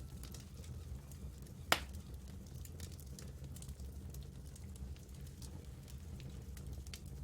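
Campfire burning, wood crackling with scattered small pops and one loud snap a little under two seconds in.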